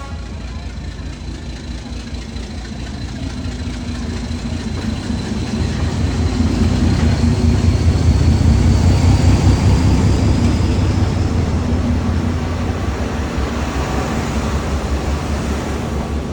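Passenger train rolling past at very close range: a steady low rumble of carriages and wheels on the rails. It swells to its loudest about halfway through, then eases, with a faint high whine rising slightly in the middle.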